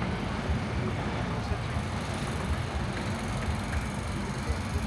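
Indistinct voices over a steady, irregular low rumble.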